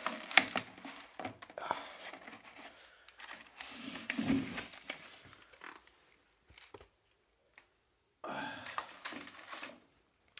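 Handling noise from unpacking: rustling and crinkling with scattered clicks and knocks, falling quiet midway before another burst of rustling near the end.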